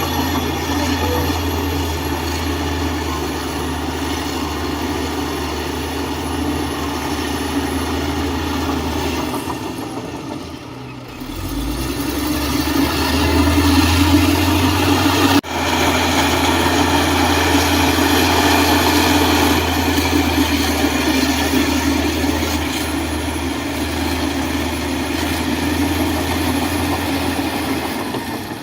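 Heavy diesel engine of a construction machine running steadily. About ten seconds in it drops off briefly, then picks up and runs harder for a few seconds, with a sudden break at about fifteen seconds.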